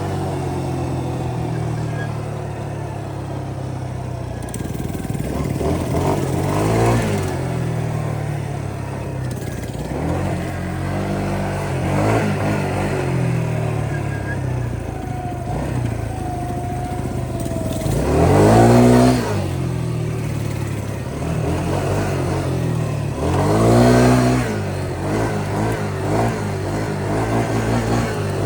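Yamaha Grizzly 125 ATV's small single-cylinder engine running under way, revving up and easing back down about four times. The two rev-ups in the second half are the loudest.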